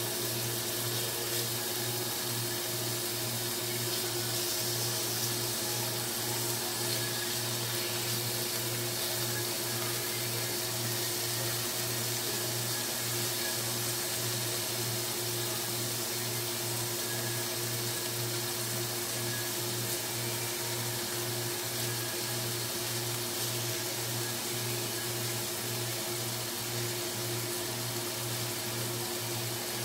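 Beef pieces sizzling steadily in hot oil in a nonstick frying pan, over a steady low hum.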